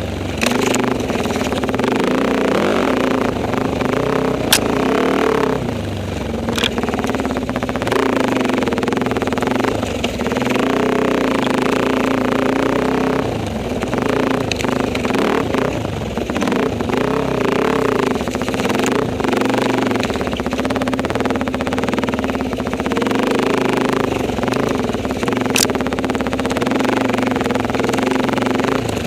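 Enduro motorcycle engine running under changing throttle, its note rising and falling, with a few sharp clicks and knocks along the way.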